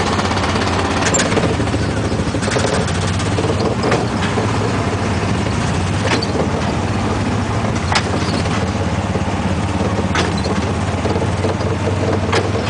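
Small gasoline engine of a Disneyland Autopia car running steadily as the car drives along, with a sharp knock every couple of seconds.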